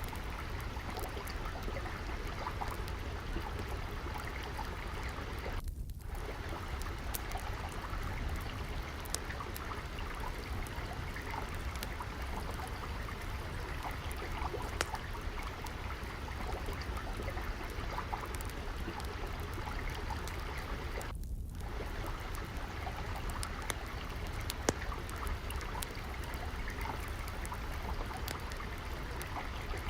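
Steady trickle of flowing water, overlaid by the scattered sharp pops and crackles of a wood fire burning in a fireplace.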